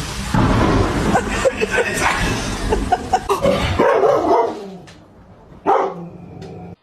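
Dog barking and yipping in short bursts over a loud background noise that fades out about four seconds in.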